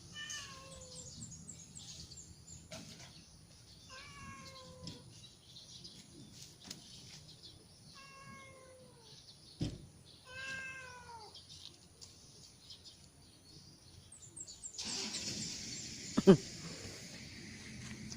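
A cat meowing four times, a few seconds apart, each meow falling in pitch. A sharp knock comes near the end and is the loudest sound.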